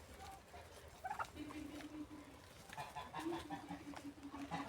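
Domestic fowl calling: two drawn-out low calls, one starting about a second and a half in and another a little after three seconds, with a few short clucks between.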